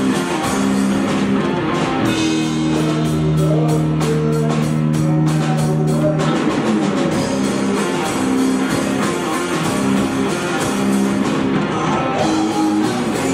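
Live rock band playing: held electric guitar chords over a driving drum kit beat.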